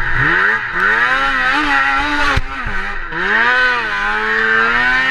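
Snowmobile engine revving up and down in several surges as the sled works through the creek crossing, with one sharp knock about two and a half seconds in.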